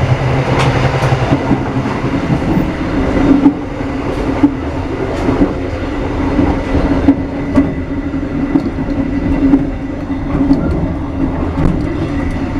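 Passenger train running, heard from inside an economy-class carriage: a steady rumble and hum of wheels on the rails, with scattered sharp clacks from rail joints.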